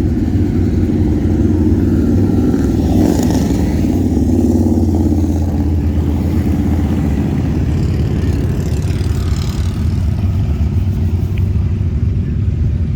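Harley-Davidson motorcycle engine running steadily with a low, rapidly pulsing rumble. A rush of hissing noise rises briefly about three seconds in and again around nine seconds in.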